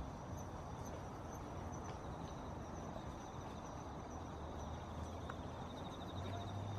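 Outdoor ambience: a low steady rumble with a faint, high continuous trill of insects.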